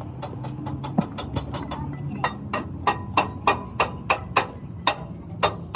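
Hammer striking metal: a few scattered blows, then a steady run of ringing strikes at about three a second from around two seconds in, over a steady low hum.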